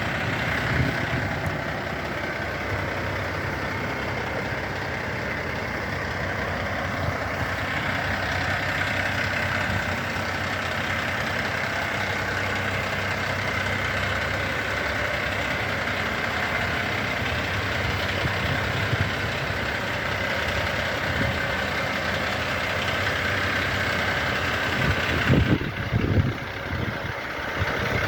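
Renault Midlum 270dCi fire truck's diesel engine idling steadily, with a few louder knocks about 25 seconds in.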